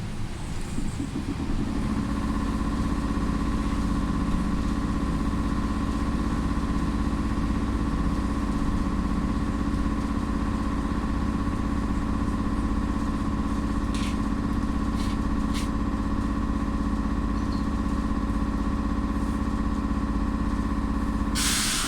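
BKM 333 trolleybus heard from inside: a steady electric hum in a few fixed tones sets in a second or two in and holds, with a few faint clicks about two thirds of the way through. Near the end it stops with a short, loud burst of air hiss.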